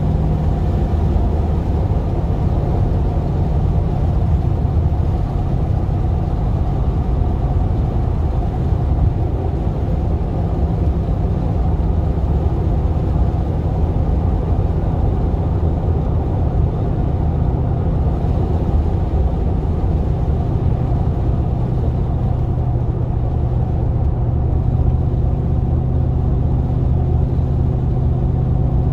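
GMC Vandura / Chevy G20 van's V8 engine running steadily under way, a continuous low rumble. About two-thirds of the way through the engine note settles slightly lower and holds.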